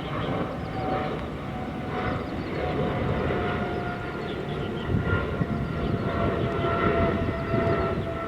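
Jet airliner engines running at the airport: a broad rumble with a steady engine whine that drifts slightly lower in pitch.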